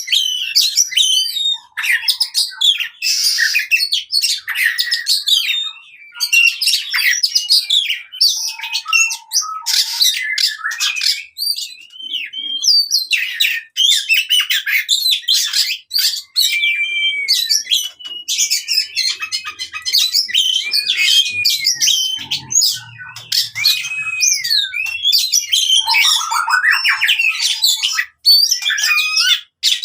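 Oriental magpie-robin (kacer) singing a fast, varied fighting song without pause: whistled glides and slurs mixed with rapid trills and harsh, scratchy notes. This is the aggressive challenge song used to provoke a silent pet kacer into singing.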